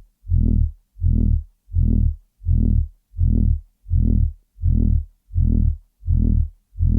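Loud, low, buzzy throbbing noise that pulses on and off about twice a second, each pulse a deep droning tone cut off sharply before the next.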